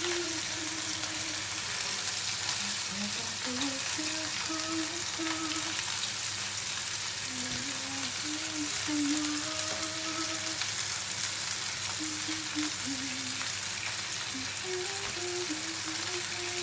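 Chicken legs frying dry in a pan with no added oil, browning in the little fat they give off; a steady, even sizzle.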